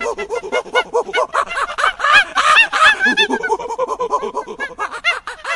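A flock of birds calling: many short, rising-and-falling calls, several a second, overlapping one another.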